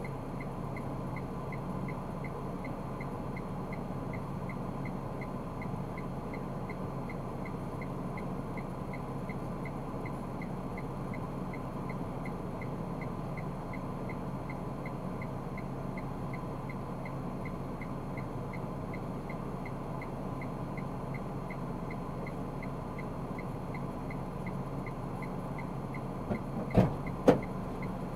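Steady in-car running noise of a car driving in city traffic, as picked up by a dashboard camera, with a low hum and a faint, evenly spaced ticking throughout. Two sharp knocks come near the end.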